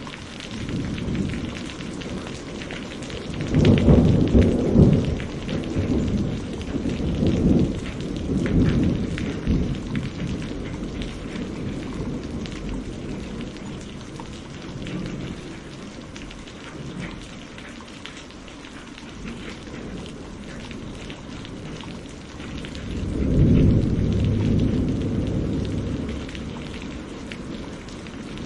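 Steady rain falling, with rolling thunder: a long rumble a few seconds in that swells several times before fading, and a second rumble about 23 seconds in.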